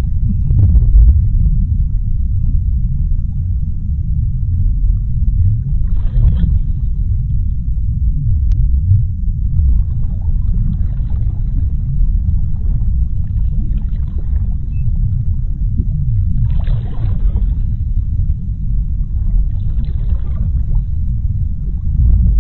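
Underwater sea ambience: a deep, continuous rumble, with several brief rushing swells of water noise.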